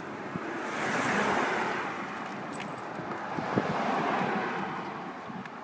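Road traffic passing: tyre noise swells and fades twice, about a second in and again around four seconds, with a sharp click partway through.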